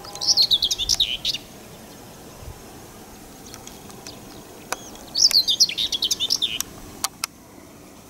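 A songbird singing two short, rapid warbling phrases a few seconds apart, with a few light clicks between them.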